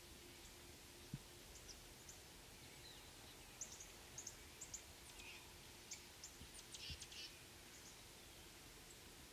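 Faint high chirps from small birds: a scattering of short notes, thickest in the middle few seconds, over near-quiet background.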